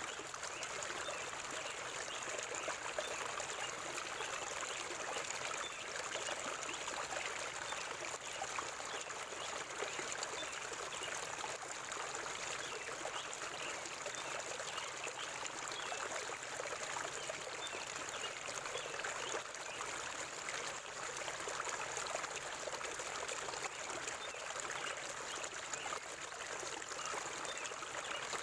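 River water flowing and trickling in a steady, unbroken rush.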